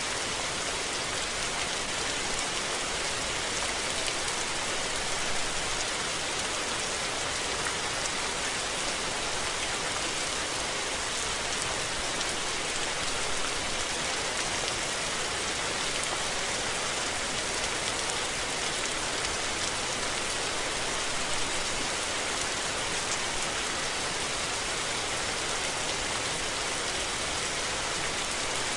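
Steady rain falling on surfaces, an even hiss of countless drops with no thunder.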